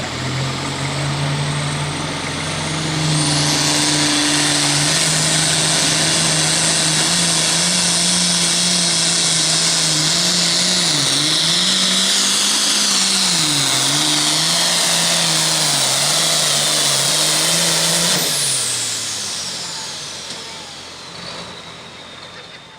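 Super Farm pulling tractor's turbocharged diesel engine at full throttle during a pull. It comes up to a loud, steady run with a high whine rising about three seconds in, and its speed dips twice in the middle. After about eighteen seconds it winds down, the whine falling away as it fades out.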